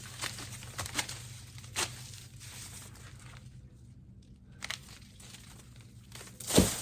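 Corn stalks being hacked down: dry leaves crinkling and stalks cracking, with several sharp snaps in the first two seconds and one loud crack near the end.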